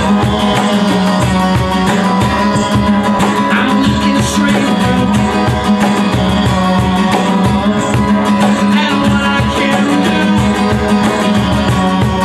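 Live band music led by guitar, with dense strumming or percussion over a steady held low note.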